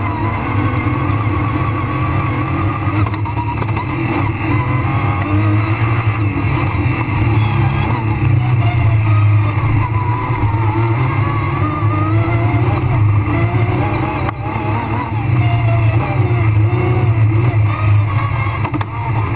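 Rally car engine heard from inside the cabin at speed on a dirt stage, revving up and down, over a constant rush of road noise.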